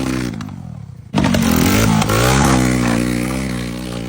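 Dirt bike engine revving: it drops off through the first second, then opens up sharply about a second in and holds high revs, easing slightly toward the end.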